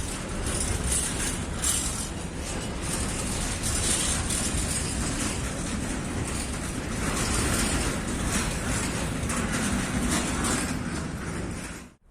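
Freight train of tank wagons rolling past, with continuous wheel-on-rail noise and rattling. It cuts off suddenly near the end.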